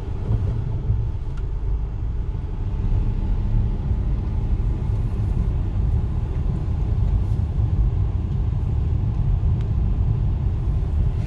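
Car engine and road noise heard from inside the cabin, a steady low rumble as the manual car drives in second gear.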